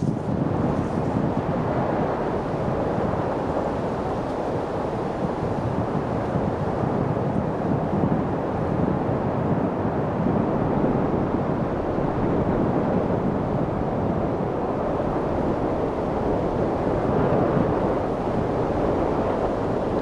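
Steady light wind: an even, low rushing that does not gust or break.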